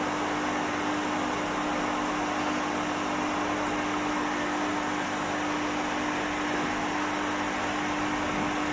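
Blow dryer running steadily on a cat's fur, an even rush of air over a constant motor hum.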